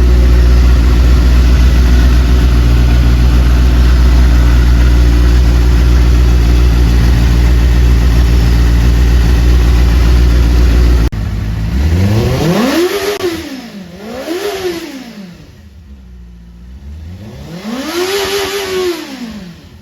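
Benelli 600i's inline-four engine idling steadily. About eleven seconds in the sound changes abruptly and the throttle is blipped three times, the revs rising and falling each time and dropping back to idle between.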